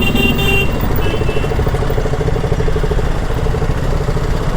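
Single-cylinder motorcycle engine of a BMW G 310 GS running steadily on the move, with wind noise on the rider's microphone.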